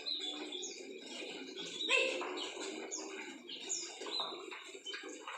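Small aviary birds chirping: many short, high, falling chirps, a few each second, over a steady low background noise.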